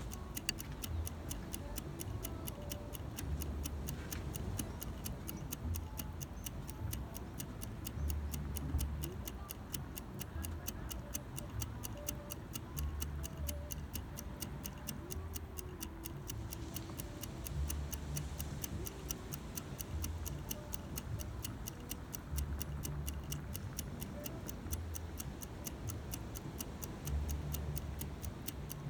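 Insects chirping in a fast, steady pulse, about five a second, with low rumbles coming and going every couple of seconds.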